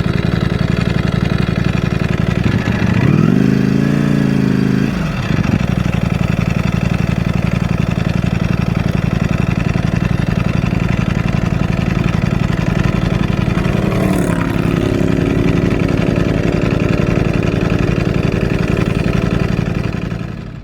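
Motorcycle engine running under way, a steady note that climbs briefly about three seconds in and drops back about two seconds later, shifts pitch again around fourteen seconds, and fades out at the very end.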